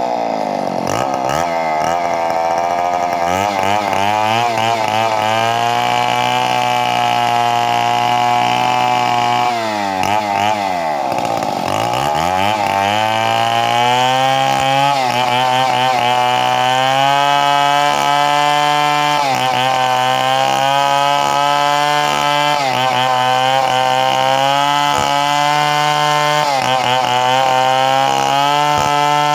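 Chainsaw engine running at high revs while cutting wood. About a second in and again around ten seconds, its pitch falls away and climbs back up; later the pitch dips briefly every couple of seconds.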